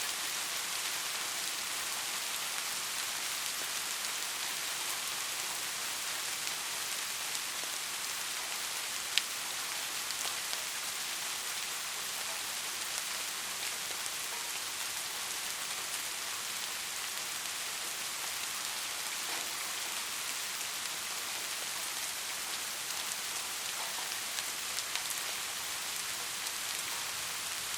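Steady rain falling, an even hiss with scattered individual drops ticking, and one sharper drop click about nine seconds in.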